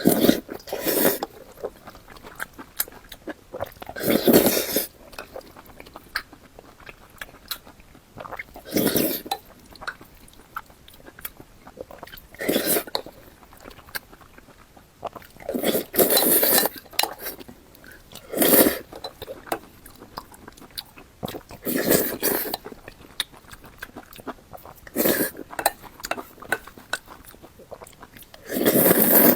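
Close-miked eating sounds: a person chewing with wet mouth smacks and clicks, and a louder bite or slurp about every three to four seconds.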